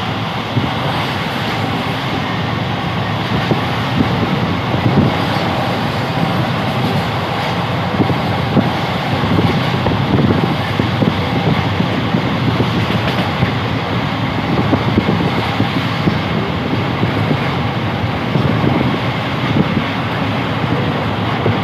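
Steady running noise of a moving passenger train heard from aboard, with faint scattered knocks from the wheels and carriage.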